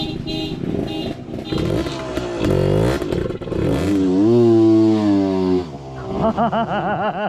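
Dirt bike engine revving: the pitch dips and climbs again, holds steady for over a second around the middle, then drops and wavers in quick blips near the end.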